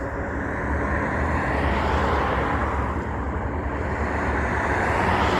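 Heavy truck driving past: a low engine rumble and tyre noise that grows louder toward the end.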